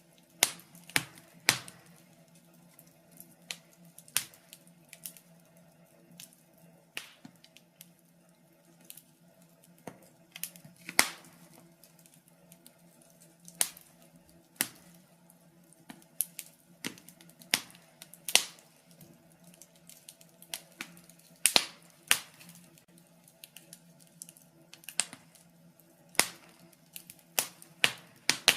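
Fireplace fire crackling: irregular sharp pops and snaps, sometimes several in quick succession, over a faint steady low hum.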